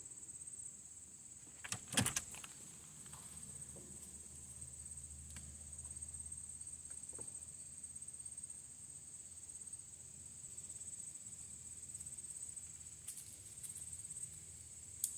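Steady high-pitched chirring of an insect chorus, with a couple of sharp knocks about two seconds in.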